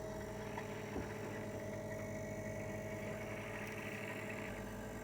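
SC21F hermetic refrigeration compressor converted into a silent air compressor, running steadily under load at about 50 psi: a low, even hum with a constant tone over it.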